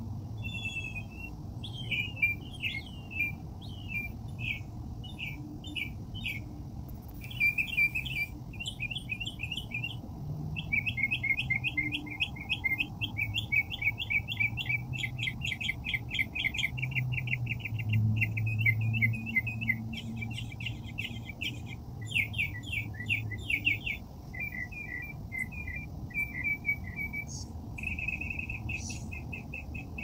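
Small birds chirping, with fast trills of short, high notes in runs separated by brief pauses. A low, steady hum sits underneath.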